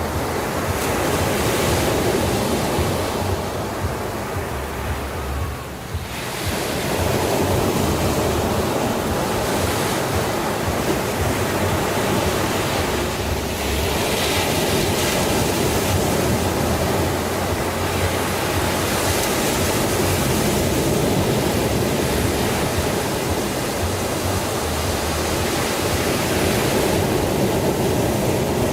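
Sea surf washing steadily onto a shore, with a low wind rumble underneath. It eases briefly about five seconds in, then surges back.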